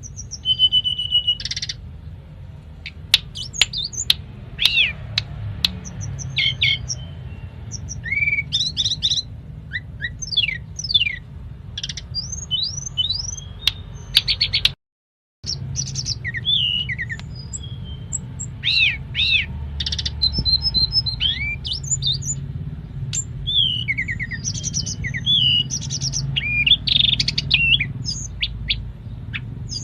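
Tledekan gunung songbird singing a fast, varied run of sharp chirps and whistled up-and-down glides, over a low background hum. The song cuts out completely for about half a second about halfway through.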